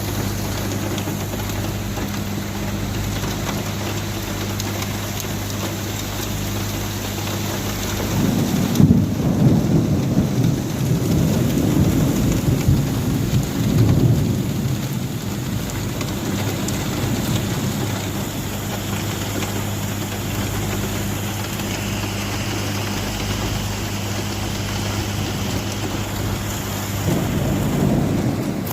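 Steady downpour of rain with rolling thunder: a long rumble swells up about eight seconds in and rolls on for several seconds, and another starts near the end.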